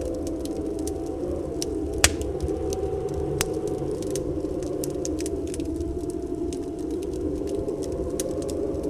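Wood fire crackling, with scattered small snaps, a sharp pop about two seconds in and a smaller one a little later, over a steady whistling storm wind.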